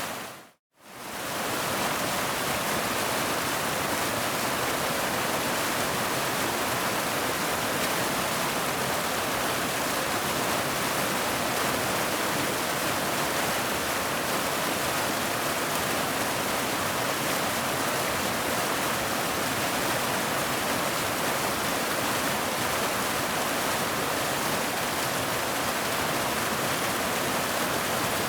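Waterfall: the steady, even rush of falling water. It drops out to silence briefly about half a second in, then fades back up.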